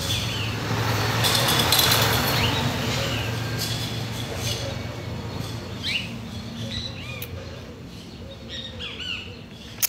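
Birds chirping, short curved calls repeating every second or two, over a rushing noise that swells in the first few seconds and then fades, with a steady low hum underneath.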